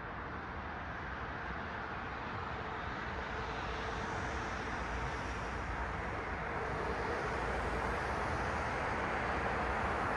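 Passing road traffic: a steady rush of tyre and engine noise that grows slowly louder as a car approaches.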